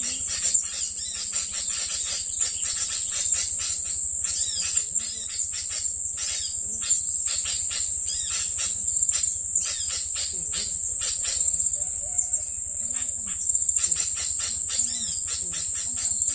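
Dense, rapid chirping of small birds over a steady, high-pitched insect-like buzz.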